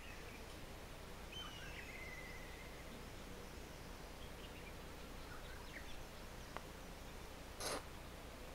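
Faint outdoor background hiss with distant birds calling: one call slides down into a short trill about a second and a half in, and a few scattered chirps follow. A brief rush of noise near the end.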